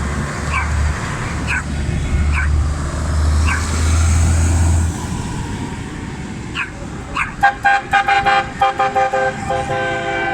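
A tractor's horn tooting repeatedly in quick succession from about seven and a half seconds, over a low engine hum that fades after about five seconds. A dog yaps a few times in the first half.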